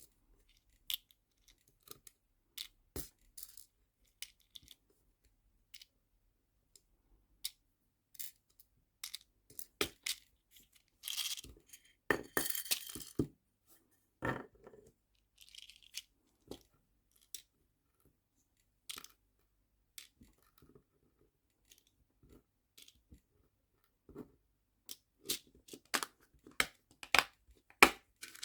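Nail charms and small plastic storage boxes being handled during sorting: scattered light clicks and taps, with a brief rattle of many small pieces about eleven seconds in and a quicker run of clicks near the end.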